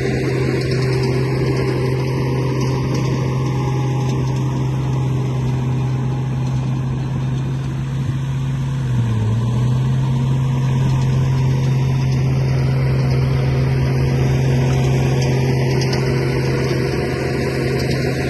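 An engine running steadily with a low, even hum that dips briefly in pitch about nine seconds in.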